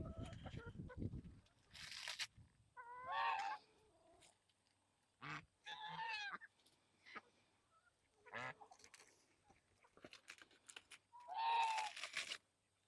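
Geese honking: a few separate calls spaced several seconds apart, with a rustle near the start.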